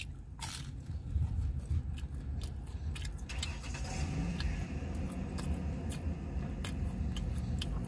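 A person chewing a bite of crispy pizza crust, with small crunches and mouth clicks scattered throughout, over a low steady rumble.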